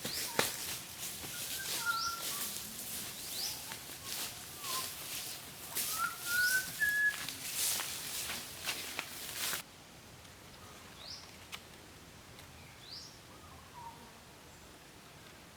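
Birds calling with short rising chirps every second or two, with a few lower whistled notes. A loud crackly hiss runs underneath and cuts off suddenly about two-thirds of the way through, leaving only the faint chirps.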